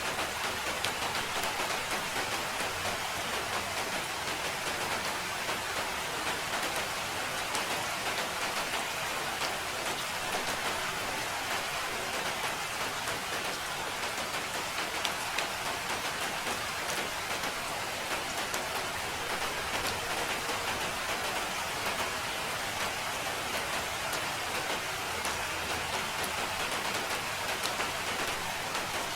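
Steady rain falling, a dense even hiss with the fine ticks of single drops striking a surface.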